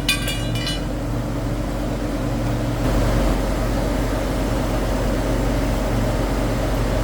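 Steady hum and drone of factory machinery running continuously.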